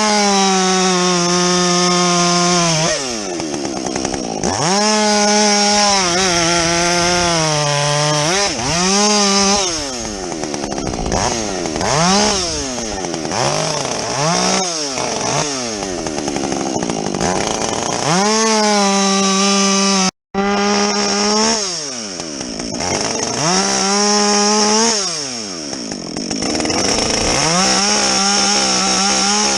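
Husqvarna 562XP two-stroke chainsaw with a modified, opened-up muffler, bucking logs. It repeatedly revs up to a steady full-throttle pitch through a cut and drops back toward idle between cuts, about eight times. The sound cuts out for an instant about two-thirds of the way through.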